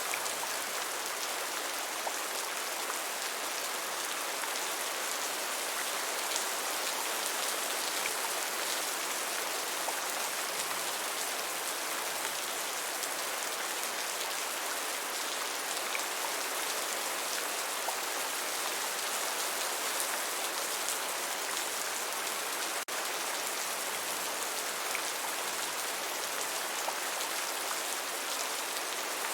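Steady, even rain falling, a dense hiss of drops with small individual drop ticks scattered through it. A split-second dip in the sound comes about three quarters of the way through.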